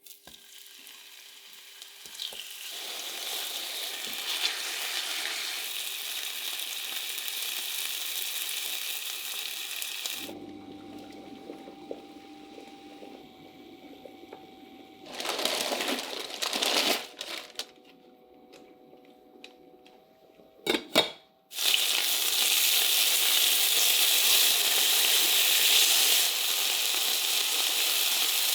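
Food sizzling and frying in a hot pan. The sizzle drops away about a third of the way in, leaving a quieter stretch with a steady hum, a brief loud rush of noise and a couple of sharp clicks. The loud sizzling then starts again.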